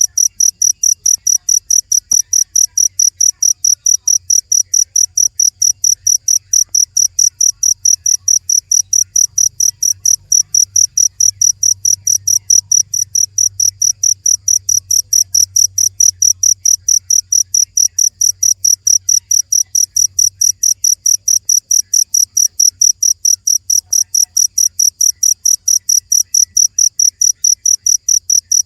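Cricket chirping steadily, loud high-pitched chirps repeated evenly at about three a second.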